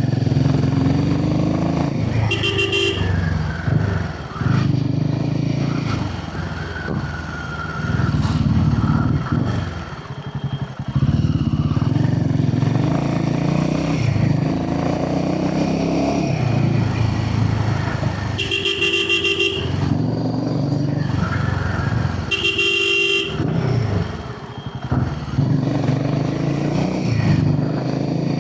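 Royal Enfield Himalayan 450's single-cylinder engine running through its aftermarket barrel exhaust while riding, the throttle easing off and opening up again several times. A vehicle horn honks three times: once near the start, then twice a few seconds apart about two-thirds of the way through.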